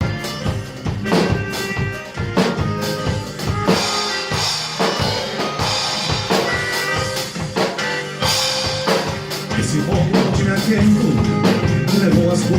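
Live band playing, the drum kit prominent with a steady beat of strikes under held instrument notes; the low end fills out toward the end.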